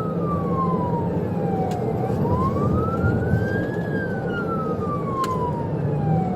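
Police car siren on a slow wail, rising and then falling in pitch in a cycle of about four seconds, over steady engine and road noise.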